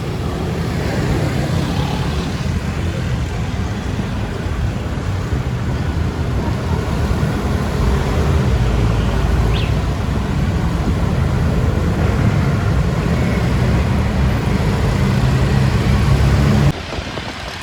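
Road traffic heard from a moving bicycle, with wind buffeting the microphone in a steady low rumble. The rumble drops away suddenly near the end.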